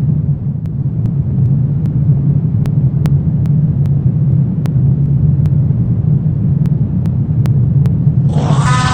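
Deep, steady rumbling drone of a horror ambience, with faint scattered clicks over it. Near the end, a high wailing cry that falls in pitch sets in.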